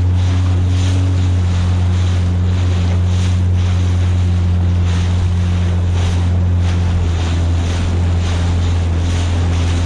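Yamaha jet ski engine running at a steady, unchanging pitch, with water splashing against the hull and wind buffeting the microphone.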